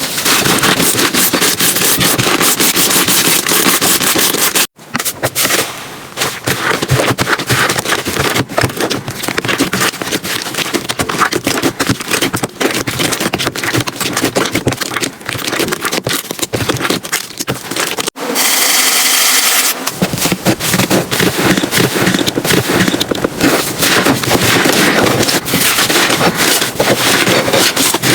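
Slime being squeezed, pressed and poked by hand, giving dense, loud crackling and popping. The sound cuts abruptly about five seconds in and again near eighteen seconds as one clip gives way to the next, with a short hissy, thinner stretch just after the second cut.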